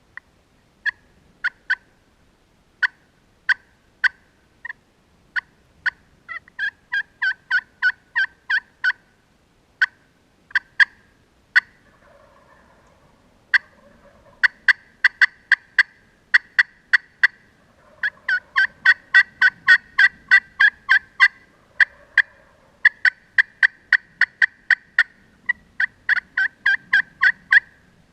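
Loud turkey clucking: short, sharp notes, a few single ones at first, then fast runs of clucks repeated through the stretch.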